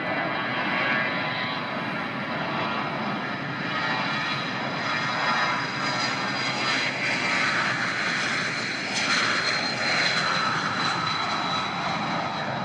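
Airliner engines running with a steady noise and a high whine, growing louder past the middle and easing slightly near the end.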